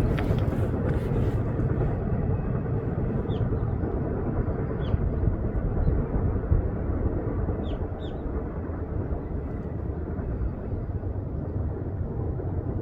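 Steady low rumble of a passing train, slowly fading as it moves away, with a few short bird chirps over it.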